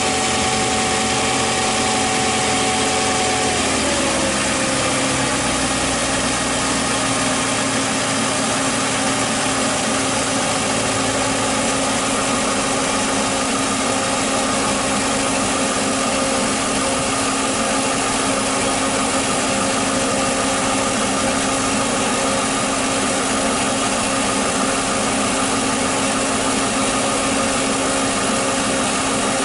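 Mercedes-Benz R129 SL500's 5.0-litre V8 idling with the hood open. Its pitch drops a few seconds in, then holds steady.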